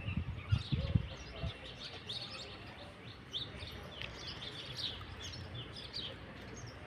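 Small birds chirping: many short, high chirps overlapping throughout. A few low thumps in the first second or so are the loudest sounds.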